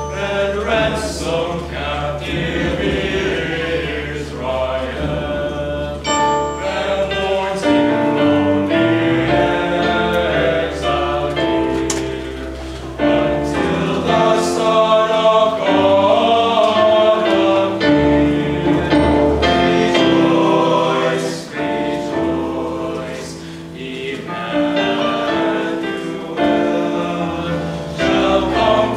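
Choir singing a sacred Christmas carol in several parts, with held chords that swell and ease.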